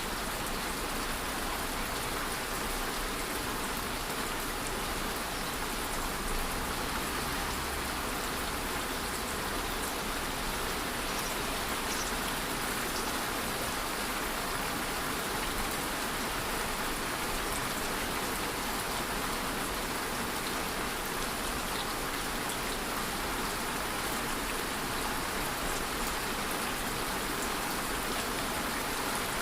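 Steady rain ambience: an even, unbroken hiss of rainfall with an occasional faint drop tick.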